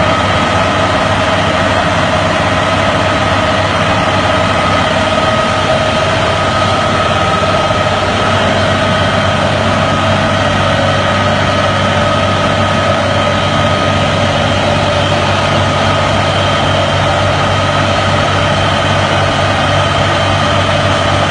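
Truck-mounted generator running steadily: a constant low engine drone with a steady whine above it.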